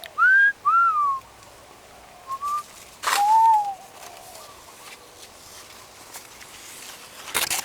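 A few clear whistled notes gliding in pitch: one rising, one arching down, a short faint one, then a lower arched note. A brief rustle comes near the end.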